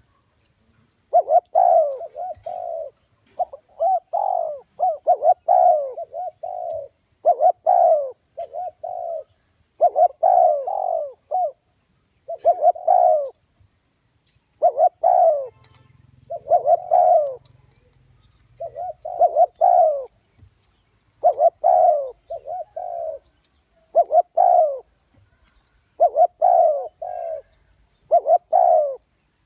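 Spotted dove cooing: repeated phrases of several low coos, a new phrase every two to three seconds.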